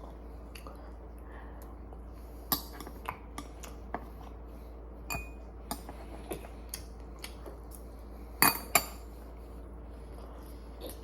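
Eating utensils clicking and clinking against dishes during a pork-belly meal: a string of irregular taps, with two louder clicks close together about eight seconds in, over a faint steady hum.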